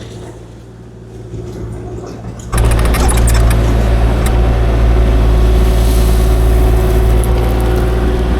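Kubota KX040-4 mini excavator's diesel engine running at low speed, then about two and a half seconds in jumping abruptly to a much louder, steady high-speed run as the machine works.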